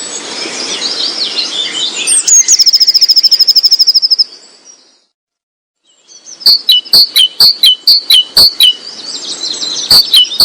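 Birds singing and calling: a dense tangle of high chirps, then a fast, loud trill for about two seconds. After a brief total silence near the middle, a loud sharp call repeats about three times a second.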